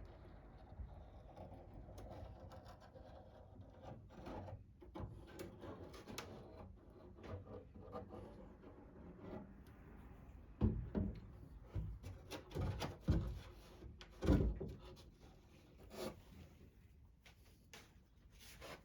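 An old wooden drawer being handled: wood rubbing and sliding quietly, then a run of loud knocks and thumps a little past the middle as it is bumped and set against wood.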